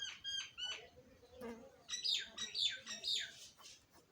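Birds calling: three short, quick calls at the start, then from about two seconds in a run of five louder calls, each sliding down in pitch.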